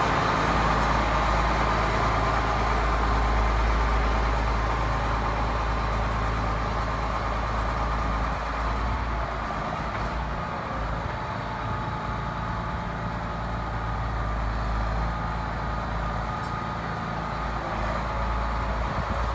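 Case MX135 tractor's six-cylinder diesel engine running steadily at low revs, a little quieter after about eight seconds.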